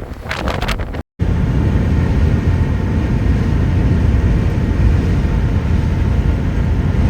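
Strong gusting wind buffeting the microphone, cut off abruptly about a second in. It is followed by the steady low rumble of a 10-metre RV motorhome driving in very strong wind.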